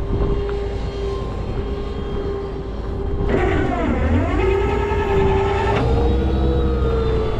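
Rollback tow truck's running engine and hydraulic pump whining steadily; about three seconds in a louder whine joins, drops in pitch as if under load, recovers and holds for a couple of seconds before cutting off.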